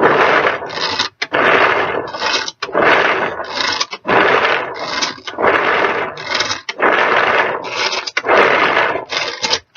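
Tupperware pull-cord chopper being pulled over and over, about seven pulls, each a second-long whirring rattle as the spinning blades chop tough pieces of whole carrot.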